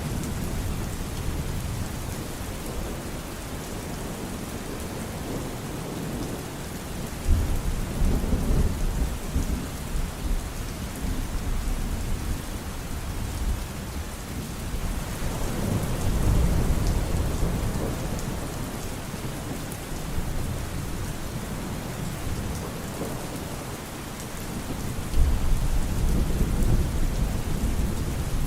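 Thunderstorm: steady rain falling on a surface, with rolls of deep thunder that swell up about a quarter of the way in, again around the middle, and again near the end.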